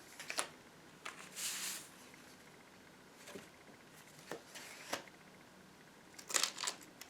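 Paper pages and cards of a handmade junk journal being handled and turned. There is a soft swish of paper about a second and a half in, a few light taps, and a cluster of rustles and clicks near the end.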